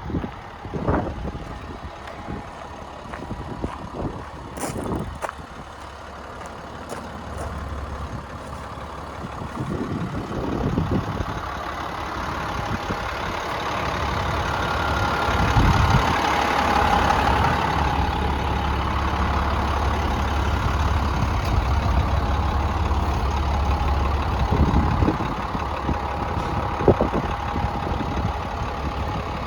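International DT466 diesel truck engine running at idle, with a few knocks early on. Its sound swells and grows louder through the middle, then eases back.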